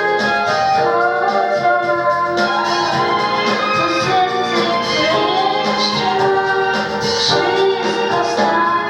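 A female vocalist singing a song over instrumental accompaniment.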